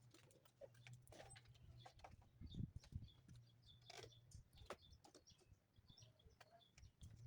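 Faint scattered clicks and light knocks over a steady low hum, near silence overall.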